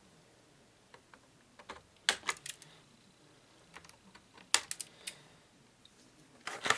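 Scattered sharp clicks and snips from cutting twist ties off an action figure and handling its plastic packaging tray. They come singly and in small clusters, with a louder group near the end.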